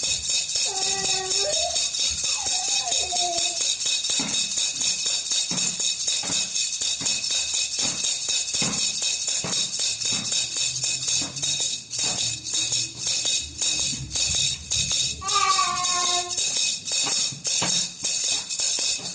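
Star-shaped baby rattle (khulkhula) shaken continuously, its beads making a dense, high jingling rattle that breaks into separate shakes in the second half. A short pitched vocal sound comes near the start and again about three-quarters through.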